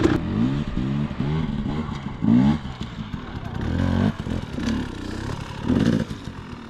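Dirt bike engine in second gear, given repeated short bursts of throttle that each rise in pitch, labouring and bogging under load as the bike struggles up over an obstacle.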